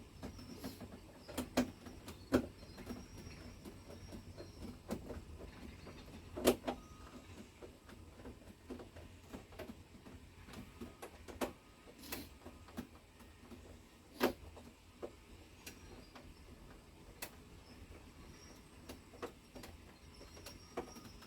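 Scattered light clicks and knocks of parts and tools being handled, over a low steady hum. The loudest knocks come about six seconds in and again about fourteen seconds in.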